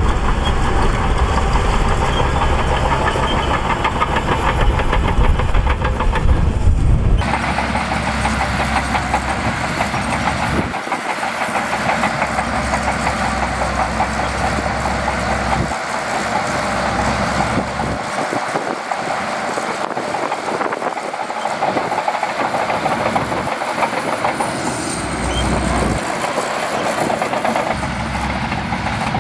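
Shantui DH17C2 crawler bulldozer working: diesel engine running under load with the steel tracks clanking and rattling. The sound changes abruptly about a quarter of the way in.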